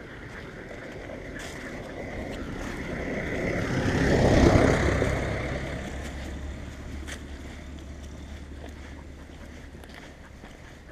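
A motor vehicle passing by: its engine noise swells to its loudest about four and a half seconds in, then fades away, leaving a low steady hum.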